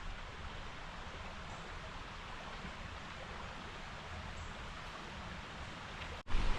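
Steady rushing of flowing creek water. About six seconds in, the sound cuts out for an instant, and then louder low wind rumble hits the microphone.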